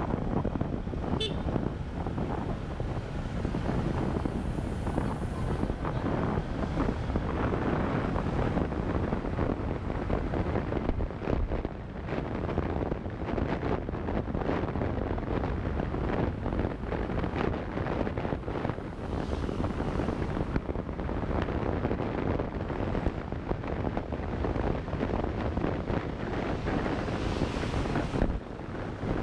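Wind buffeting the microphone of a camera riding on a moving motorcycle, gusting throughout, with the motorcycle's running and road noise underneath.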